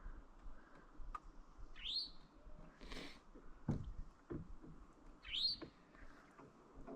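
A songbird giving a short, high, rising call, twice about three and a half seconds apart, over a steady low background rush. A couple of dull low thumps come near the middle.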